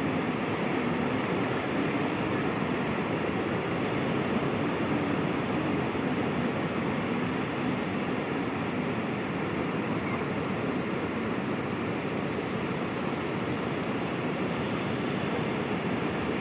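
Sea waves washing on the shore in a steady, even roar, with no single breaker standing out.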